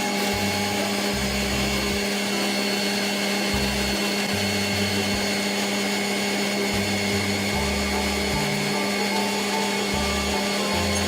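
Steady machine drone of a running motor, even and unchanging, with a bass line of background music stepping underneath.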